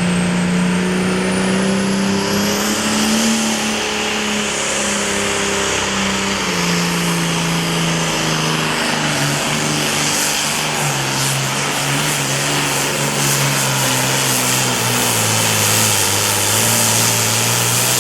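Super Farm class pulling tractor's turbocharged diesel engine running hard under load down the track. Its pitch sinks steadily as the sled drags it down, and a high turbo whistle rises over the first few seconds.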